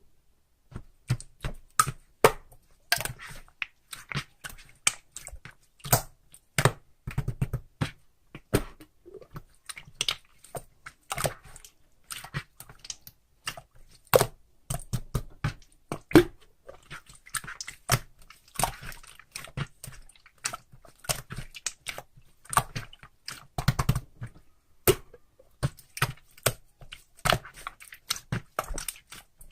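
Close-up crinkling, tapping and clicking of paper being handled, in quick irregular bursts.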